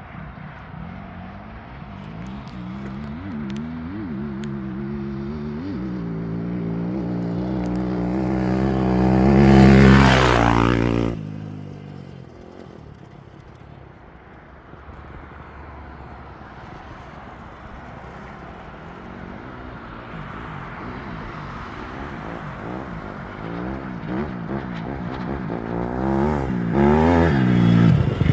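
Motorcycle engine accelerating under throttle. It grows louder to a peak about ten seconds in, then falls away suddenly, and builds up again near the end.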